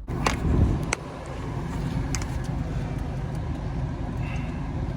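Car running, heard from inside the cabin as a steady low rumble, with a few light clicks and knocks in the first couple of seconds.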